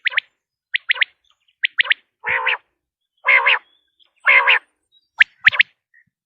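Common quail calling: short, sharp, high notes in quick groups of two and three. In the middle of the stretch come three longer, rougher calls about a second apart.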